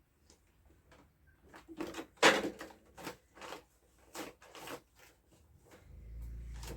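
Hand-digging and shifting collapsed clay: a run of irregular knocks and scrapes, the loudest about two seconds in, then a low rumble near the end.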